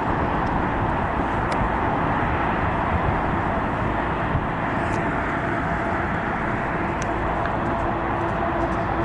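Container freight train rolling past: a steady rumble of steel wheels on rail, with a few faint high clicks. A steady hum grows in near the end.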